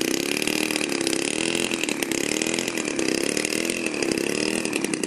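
106cc petrol engine of a large model aircraft running, its pitch swelling and dipping about once a second.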